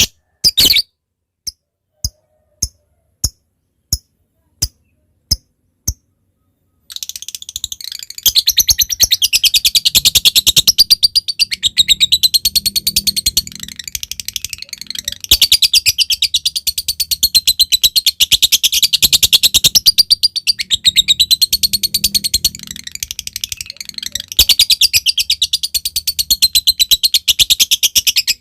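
A lovebird makes a string of sharp separate ticks, about one and a half a second, the 'ngetik' call. About seven seconds in it breaks into a long, rapid, high chatter with a wavering pitch, the 'ngekek panjang' trill, which runs on with a couple of brief dips.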